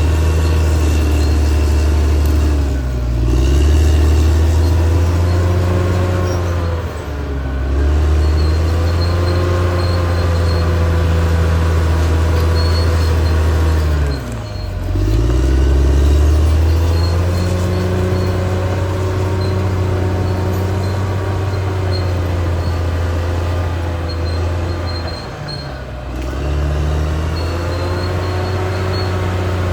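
Caterpillar D6R XL bulldozer's diesel engine running steadily at working speed, its pitch briefly sagging and recovering four times: about three, seven, fourteen and twenty-six seconds in.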